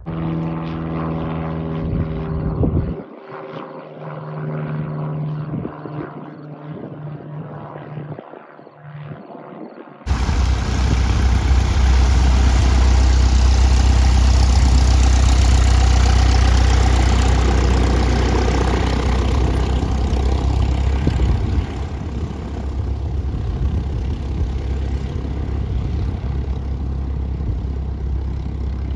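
Single-engine piston propeller airplane engine running, with a steady pitched drone. About a third of the way in it cuts to a much louder, deeper engine sound at high power. That sound swells, then eases to a steadier, quieter run in the last few seconds.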